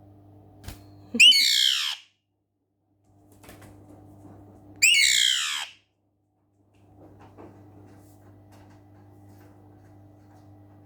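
Alexandrine parrot giving two loud, harsh screeching calls, each under a second long and falling in pitch, about three and a half seconds apart.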